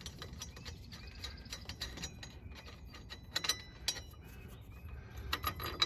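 Ratcheting wrench clicking in short irregular runs as the nut is turned off the top stud of a front shock absorber, with a few sharper metal clicks about midway and near the end.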